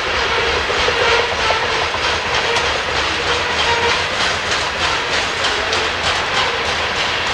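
Coal train's hopper cars rolling past, a steady rumble of wheels on rail with a run of rhythmic wheel clicks over the rail joints through the middle.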